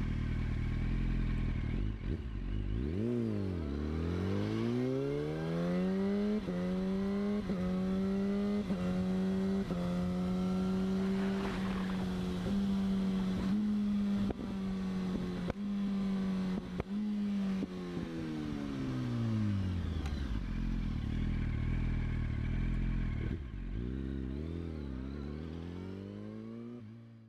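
Yamaha R15 V3's 155 cc single-cylinder engine with a modified exhaust, idling, blipped once, then revved up and held high for about fifteen seconds with brief dips before dropping back to idle. Two quick blips of the throttle near the end.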